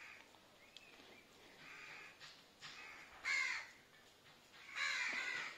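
A bird calling several times, with the loudest calls about three seconds in and again near the end.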